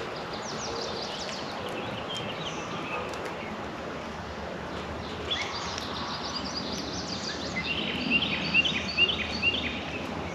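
Several songbirds chirping and calling over steady outdoor background noise, with a quick run of about six short, downward-sliding notes near the end.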